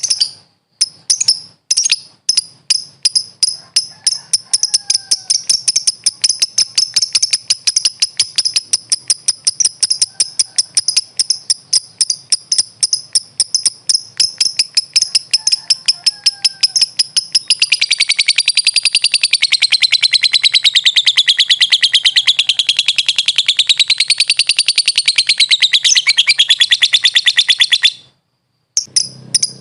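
Lovebird (Agapornis) chattering in a fast run of sharp, high chirps that speeds up to several a second. Past halfway this gives way to a long, unbroken trill that wavers up and down in pitch for about ten seconds, the drawn-out chatter known to keepers as ngekek. The trill breaks off shortly before the end, and clipped chirps start again.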